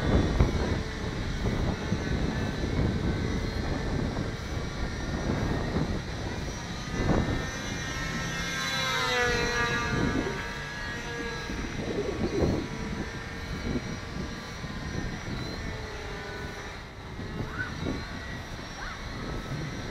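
Electric motor and propeller of a Hobbyzone Delta Ray RC plane whining in flight, the pitch rising and falling as the throttle changes and the plane passes, with wind buffeting the microphone.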